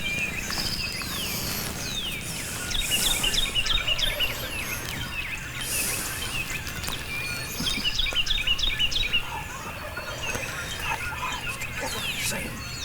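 Songbirds singing, one repeating a quick run of high chirps about every four to five seconds, with other scattered bird calls.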